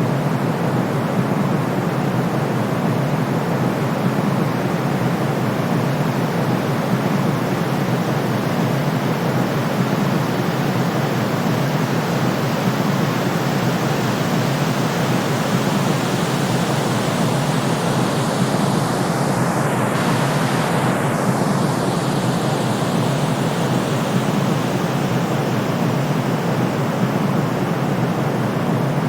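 Steady white noise for soothing a colicky baby: an even, unbroken hiss, heavier toward the low end, at a constant level.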